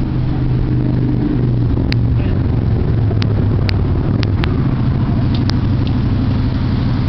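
A car engine idling steadily, giving a low, even rumble. A few short, faint high clicks sound over it.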